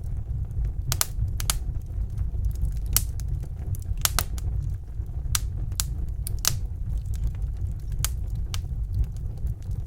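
Wood fire in a fireplace crackling, with sharp irregular pops about once a second over a steady low rumble of the flames.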